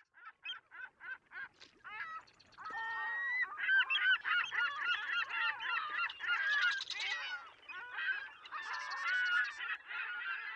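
A flock of geese honking: single honks at first, several a second, building about two seconds in into a dense, overlapping chorus of many calls.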